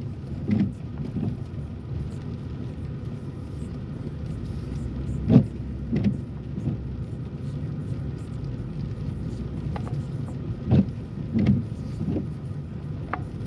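Car moving slowly, heard from inside the cabin: a steady low engine and road rumble with soft thumps that come in pairs about every five seconds.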